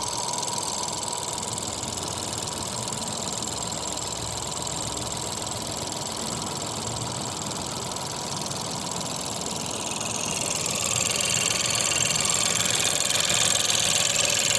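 Ford Fiesta 1.0 EcoBoost three-cylinder engine running steadily, growing a little louder from about ten seconds in.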